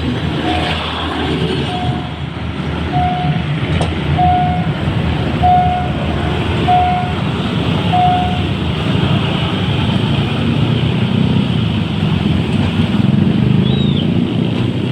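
Diesel commuter train engine running hard as the train accelerates away, a steady low rumble throughout. A short electronic beep repeats about once every second and a quarter, stopping about eight seconds in.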